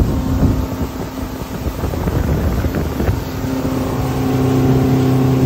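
Yamaha 150 hp four-stroke outboard running with the boat underway: a steady engine hum over the rush of water and wind buffeting the microphone. The hum fades briefly early on and comes back stronger in the second half.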